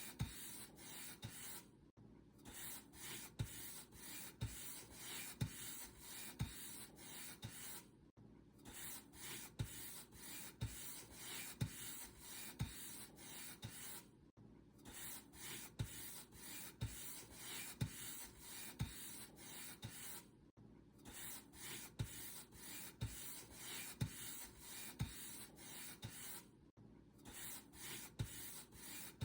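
Paint brush stroking back and forth across a surface, a soft bristly rubbing of about two strokes a second, with a short pause every six seconds or so.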